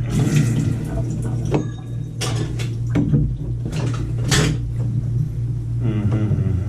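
Hand tools and small metal parts being handled and set down: a series of sharp clicks and knocks, about five of them roughly a second apart, over a steady low hum.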